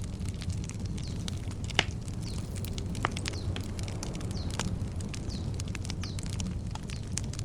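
Wood campfire crackling with many small pops and a sharp louder snap about two seconds in, over a steady low rumble. A bird repeats a short down-slurred chirp about once a second.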